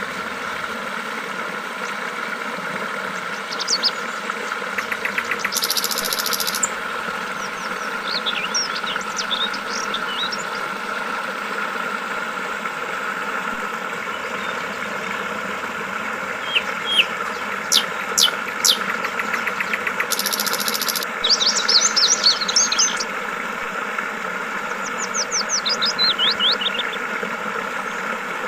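Yellow-vented bulbuls giving short phrases of chirping calls every few seconds, over the steady murmur of flowing water. A brief high buzz sounds twice, about five seconds in and about twenty seconds in.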